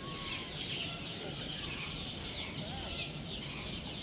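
Many birds chirping together in a dense, continuous chorus of short high calls, over a steady low background hum.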